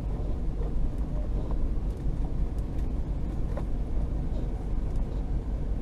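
Vehicle engine running, heard from inside the cab as a steady low rumble, with a few faint clicks.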